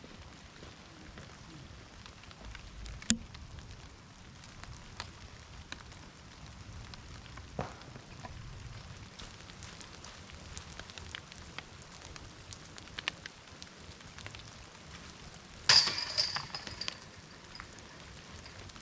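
Rain pattering, with scattered small ticks and a sharp knock about three seconds in. Near the end a disc golf putt hits the basket's metal chains: a loud jangling ring that dies away over about a second.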